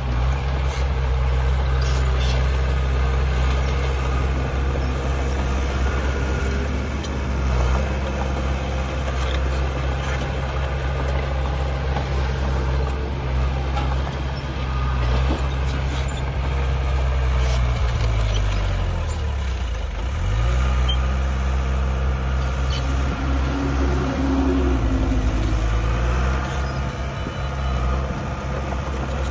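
Heavy diesel earthmoving machinery running steadily under load. The engine's pitch drops and then climbs back about two-thirds of the way through, with occasional faint knocks over it.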